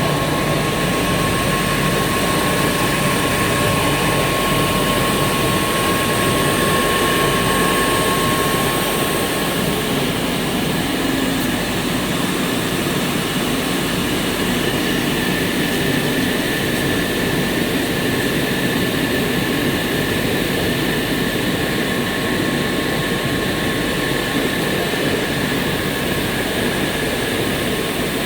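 EPE polyethylene foam sheet extrusion line running: a steady mechanical noise with several constant whines on top, one of which fades out about nine seconds in.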